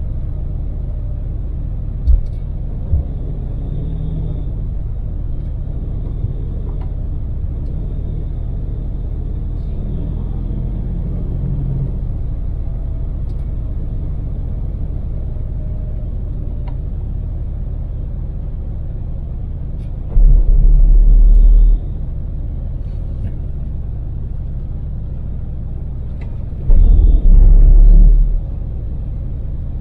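Daewoo Damas LPG microvan at expressway cruise, heard from inside the cabin: a steady low engine and road rumble. Twice, about twenty and twenty-seven seconds in, a much louder deep rumble lasts a second or two.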